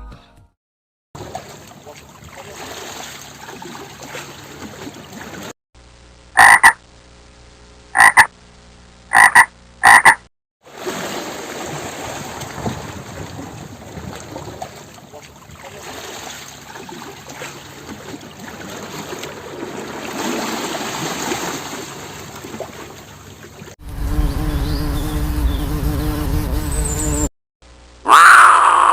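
A run of animal-call clips cut together. About six seconds in come four short, loud pitched calls, roughly one to one and a half seconds apart, followed by a long stretch of dense, noisy calling.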